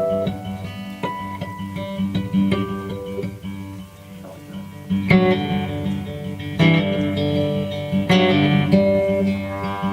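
Live instrumental Americana music: guitar picking single notes over sustained low notes, then fuller strummed chords coming in about five seconds in.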